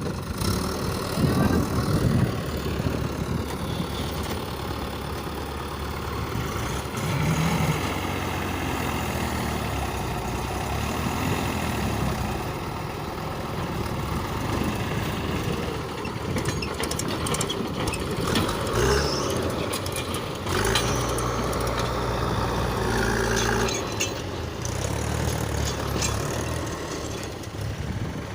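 Heavy diesel engine of a backhoe loader or farm tractor running, its note rising and falling a few times as the machine works.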